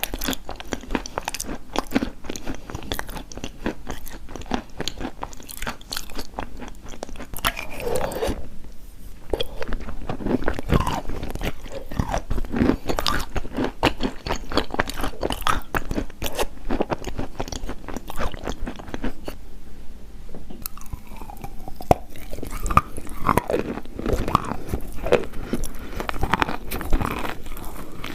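Chunks of chalk being bitten and chewed close to the microphone: a dense, irregular run of crisp crunches and crackles, with brief pauses between bites.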